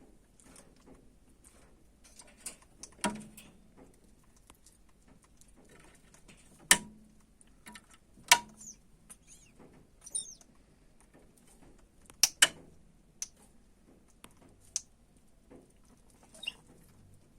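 African grey parrot making scattered sharp clicks and a few faint, high, brief chirps.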